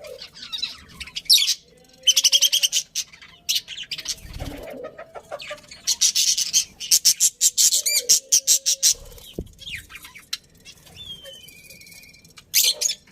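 A colony of budgerigars chirping and chattering in quick bursts of high, rapid chirps, with a few short whistled notes near the end and a dull thump about four seconds in.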